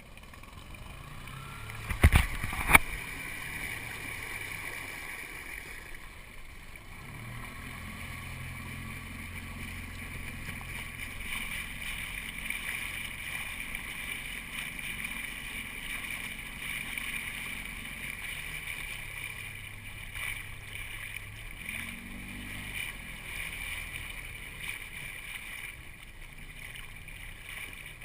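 Water sloshing and gurgling against the hull of a small boat under way, with two sharp knocks close together about two seconds in. A low steady hum comes in a few seconds later and fades out near the end.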